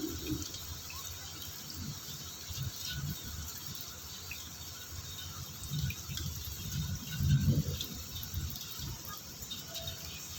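Rain falling steadily, a fine hiss with scattered ticks of drops. Irregular low thuds come through it, loudest about seven seconds in.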